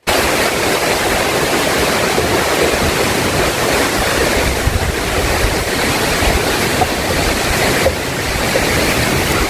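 Strong wind blowing hard: a steady loud rushing, with gusty low buffeting on the microphone.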